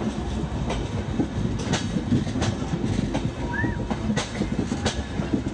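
Passenger train running on the track: a steady rumble, with the wheels clicking over rail joints about once or twice a second.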